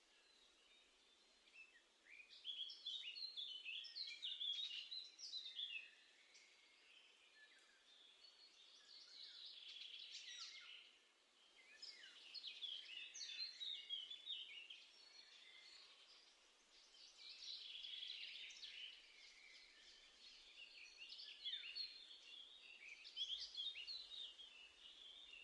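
Garden songbirds singing in a series of high, quick, varied song phrases, each a few seconds long, with short pauses between them.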